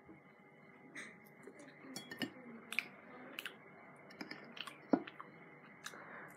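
A person chewing a mouthful of breadcrumbed eel, with small wet mouth clicks scattered through and a sharper click about five seconds in.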